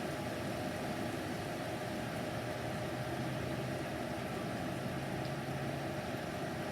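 Steady hiss of heavy rain and gusty wind in a thunderstorm, with a faint low hum beneath.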